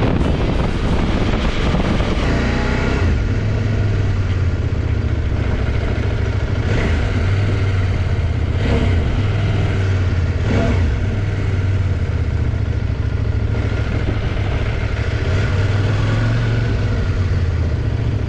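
CFMOTO IBEX 800 T's parallel-twin engine running while riding, its pitch rising as it accelerates about two seconds in.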